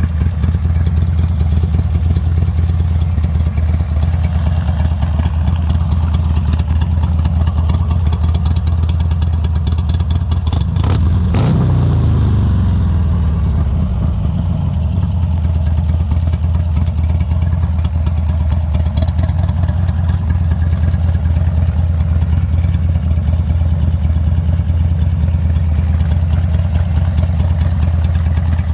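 Buell Ulysses XB12's air-cooled V-twin engine idling steadily, with one quick throttle blip about eleven seconds in that falls back to idle.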